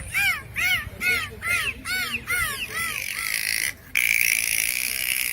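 Dolphins whistling: a quick run of short chirps that rise and fall in pitch, about three a second, giving way after about three seconds to a steady, higher whistling.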